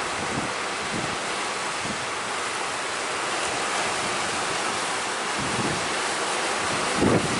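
Sea surf washing in steadily under strong wind that buffets the microphone, with heavier wind gusts toward the end.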